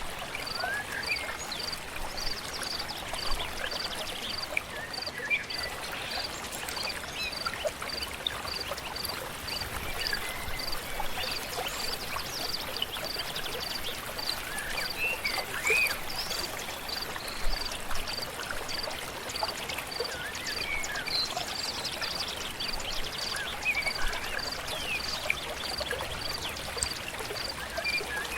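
Stream flowing steadily, with scattered short bird chirps and a high, even pulsing note repeated a little under twice a second.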